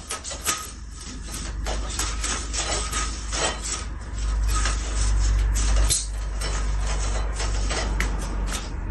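Repeated clattering knocks, several a second, over a low rumble that grows louder about four seconds in.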